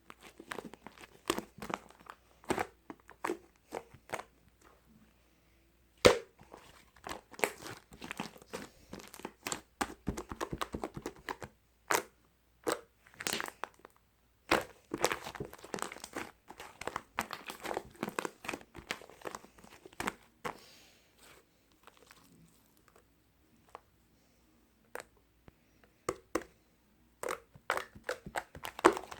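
Irregular crinkling and crackling handling sounds, with brief quiet gaps.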